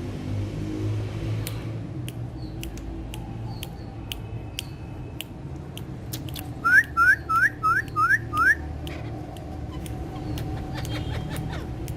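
A parakeet gives a quick run of six shrill, rising whistle-like calls near the middle, the loudest sound here. Scattered sharp clicks and a low steady rumble run underneath.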